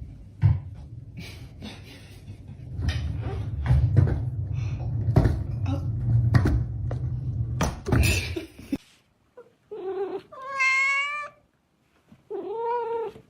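A stretch of knocks and clatter over a low rumble stops abruptly, then a domestic cat meows twice, two long drawn-out meows.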